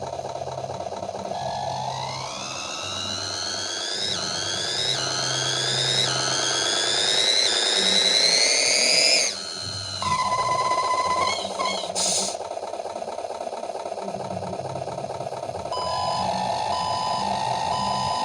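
RC car engine sound simulator playing a synthesized engine through its small speaker. It idles, then revs up in a series of rising pitch ramps that each drop back, like gear changes, and falls back to idle about nine seconds in. There is a short click around twelve seconds, and a repeating electronic beep starts over the idle near the end.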